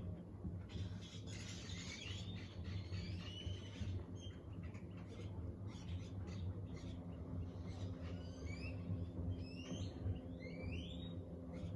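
Birds calling with short rising chirps, in two bursts of activity, over a steady low hum.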